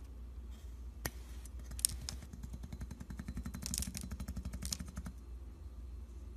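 Plastic comb teeth snapping off one after another under a metal blade pressed down on them: a sharp crack, then a fast run of clicks for about three seconds that stops abruptly. A steady low hum runs underneath.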